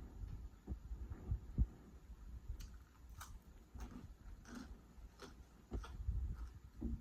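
Close-miked chewing of food, with soft low thumps of the jaw and scattered small wet mouth clicks at an uneven pace.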